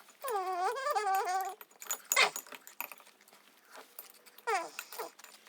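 Sped-up, chipmunk-pitched voice making a wavering wordless sound for about a second and a half, then scattered crunching clicks of pickle chips being chewed, played fast, and a short falling vocal sound about four and a half seconds in.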